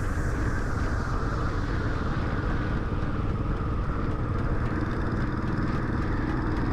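Royal Enfield Classic 350 single-cylinder engine running at a steady road speed, mixed with wind rush and road noise while riding.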